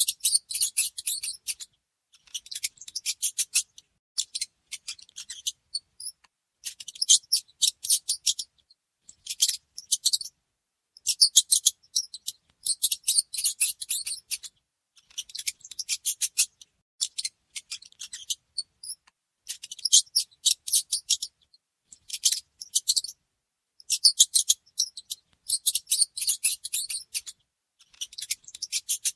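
Mice squeaking: rapid high-pitched chittering squeaks in bursts of a second or two, with short silent gaps between them.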